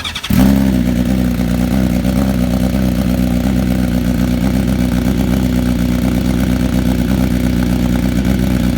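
2020 BMW S1000RR inline-four engine with an SC-Project aftermarket exhaust, cranking briefly and catching just after the start, then idling loudly and steadily.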